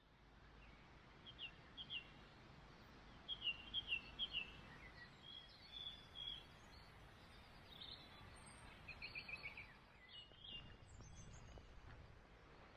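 Small birds calling in short clusters of high chirps, again and again, over a faint low wind rumble.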